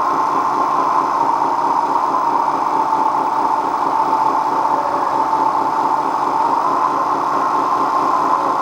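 Small electric motor and gears of a toy RC vehicle running steadily: a high whine that wavers slightly in pitch over a fast buzzing rattle.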